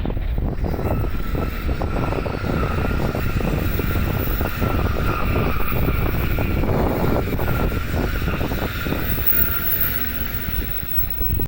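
A train running, a steady whine held over a heavy rumble, with wind buffeting the microphone.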